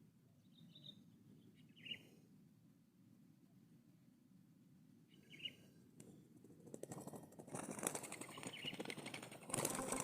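Three brief, faint bird chirps spread over the first half, then a rustling, crackling noise that grows steadily louder over the last few seconds.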